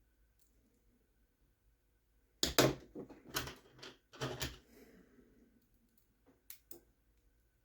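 Small hard parts and tools clicking and clacking on a work surface as the RC truck's suspension links and axle are handled during assembly: a cluster of sharp clicks and knocks a couple of seconds in, then two quick clicks near the end.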